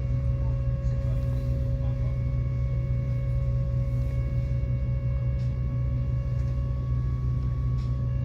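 Tram running: a steady low rumble with a steady hum of several even tones held at one pitch.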